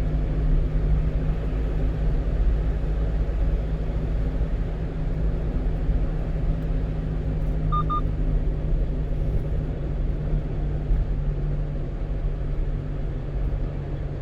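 Steady engine and road noise heard inside the cab of a 1-ton truck on the move, a low rumble with a steady hum. A short electronic double beep sounds about halfway through.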